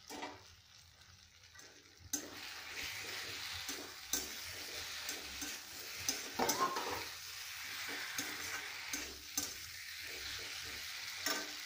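Spiced potato and tomato masala frying in oil in an iron kadai near the end of being fried down, stirred with a metal slotted spatula that scrapes and clicks against the pan. The sizzle comes up suddenly about two seconds in and holds steady.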